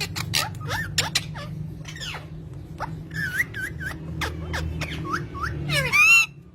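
Bird chirping in a rapid string of quick, sharp calls and short swooping notes, ending in a louder drawn-out squawk that cuts off suddenly.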